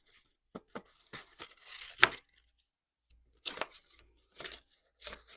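Ink being applied to the edges of a paper envelope: short scuffing, dabbing strokes of an ink applicator on paper, with one sharper tap about two seconds in.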